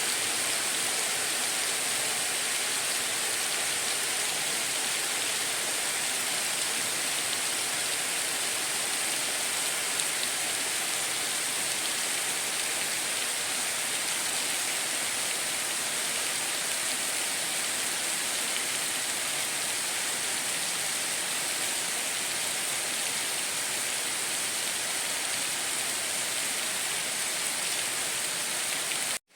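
Steady heavy rain, an even hiss with a bright high edge, that cuts off abruptly near the end.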